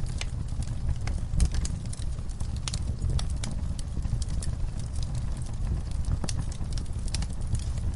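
Wood campfire crackling: irregular sharp pops and snaps from the burning wood, scattered at random over a low steady rumble.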